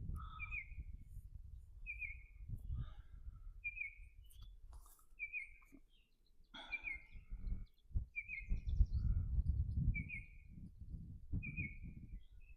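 A bird repeating a short, high chirp about every one and a half seconds, eight times in all, over a low rumbling noise.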